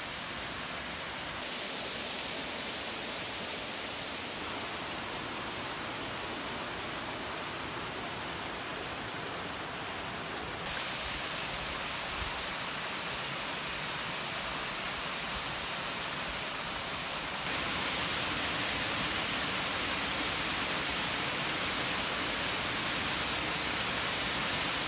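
Steady rush of water falling at a waterfall. Its level steps up suddenly three times: about a second and a half in, about eleven seconds in, and about seventeen seconds in.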